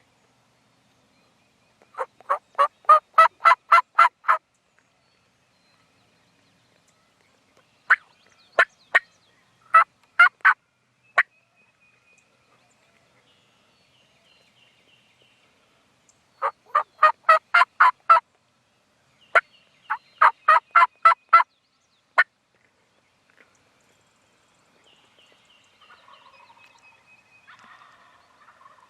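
Wild turkey-style yelping: loud, close runs of about eight to ten evenly spaced notes at roughly four a second, with shorter runs of three or four notes between. A faint rustle comes in near the end.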